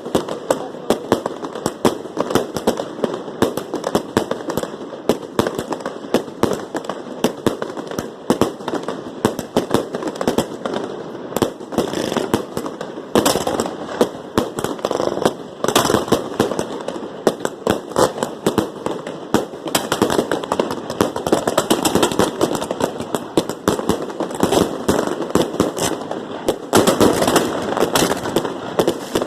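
Fireworks going off in a dense, continuous run of rapid pops and cracks, many a second, with no let-up.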